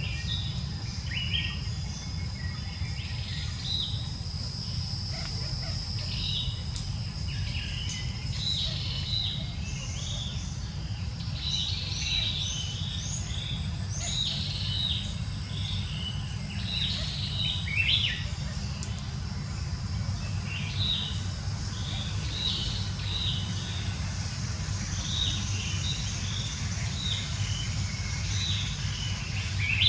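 Small birds chirping in many short, quick calls, busiest in the middle, over a steady low rumble and a thin, steady high whine.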